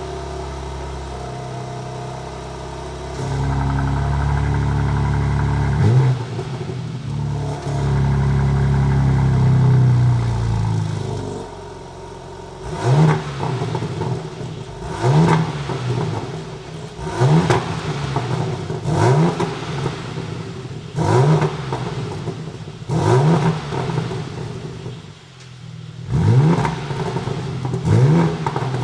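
BMW M4 Competition's twin-turbo inline-six (S58) on its stock exhaust, just after starting: it holds a steady raised idle, runs louder from about three seconds in, then settles about eleven seconds in. From then on, quick throttle blips about every two seconds, each a sharp rise and fall in pitch, echoing in an underground car park.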